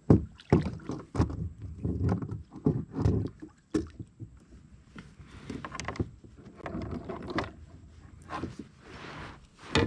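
Irregular knocks, thumps and scrapes on a plastic kayak hull, with some water sloshing, as a just-caught fish is landed and handled aboard.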